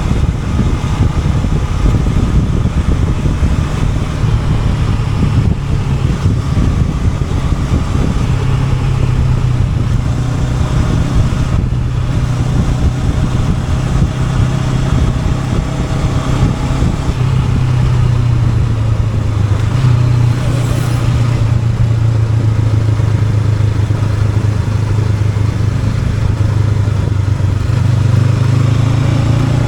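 Honda NX500's parallel-twin engine running steadily while riding, its pitch stepping a little about eight seconds in and rising near the end as it accelerates.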